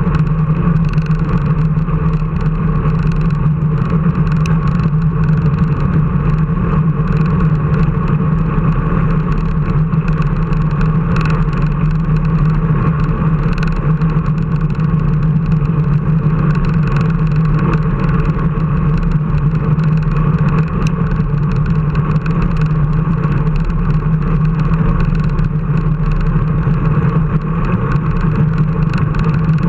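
A steady engine drone at an almost constant pitch, running without a break, with a rough low rumble beneath it.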